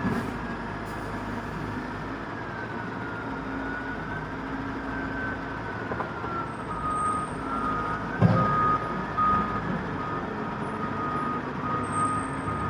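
Dump truck running, with its reversing alarm beeping in repeated tones through the second half. A heavy thump comes about eight seconds in.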